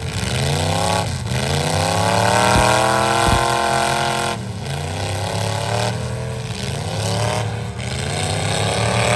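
Pickup truck engines revving hard under load, the pitch climbing and dropping several times as the throttle is worked on and off.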